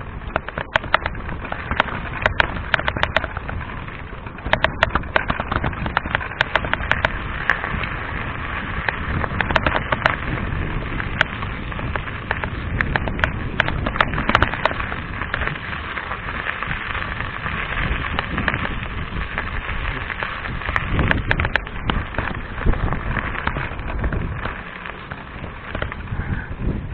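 Riding noise from a moving mountain bike: steady rushing tyre and wind noise with frequent sharp clicks and rattles, densest in the first few seconds and again a little past the middle.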